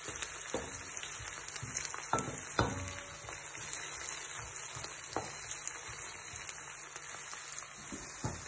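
Onion and carrot frying in oil in a pan, a steady sizzle that stays gentle because the heat is low. A few sharp clicks stand out from it, about half a second in, around two seconds in and again around five seconds in.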